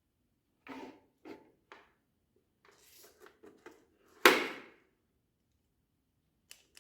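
Handling knocks and small clicks of metal parts and tools during welding setup, with one loud sharp clank about four seconds in that rings briefly. There is no welding arc, because the welder is switched off.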